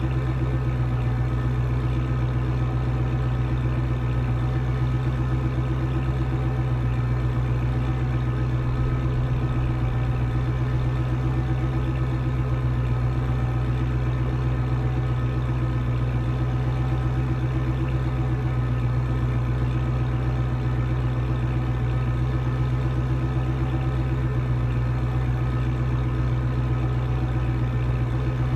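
A car engine idling steadily, a constant low rumble that does not change.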